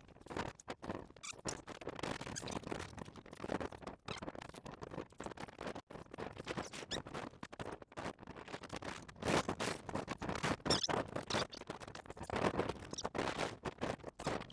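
Irregular close-up scratching and rustling: a dense run of small crackles and scrapes, louder in patches from about nine seconds in.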